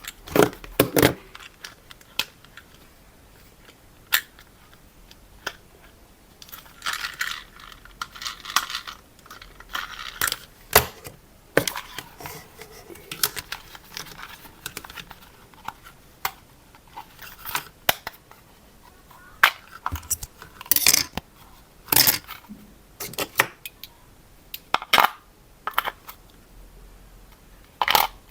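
Hard plastic toy parts and packaging being handled: irregular clicks, knocks and short rustles with quiet gaps between them.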